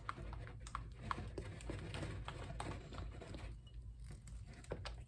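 A spoon stirring and pressing thick melted butterscotch and peanut butter in a glass bowl, with irregular light clicks and scrapes of the spoon against the glass.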